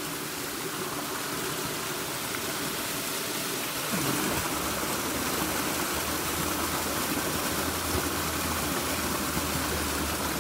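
River water rushing steadily, growing louder about four seconds in, with a low steady hum joining it from then on.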